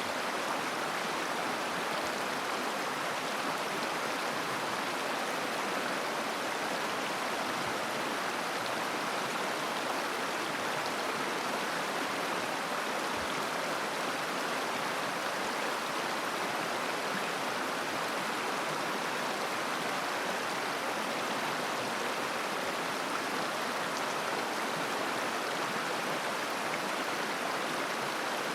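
Steady rush and babble of a mountain river's flowing water, an even sound without breaks.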